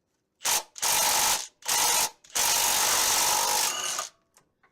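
Milwaukee Fuel cordless impact wrench hammering as it undoes the crankshaft pulley bolts. It fires in four bursts: three short ones, then a longer run of almost two seconds as a bolt breaks loose.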